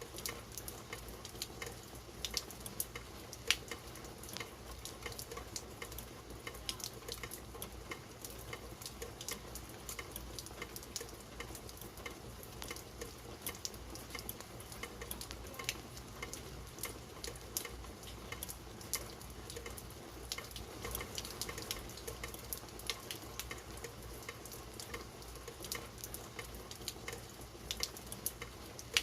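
Steady rain falling, a constant hiss dotted with many sharp individual drop impacts.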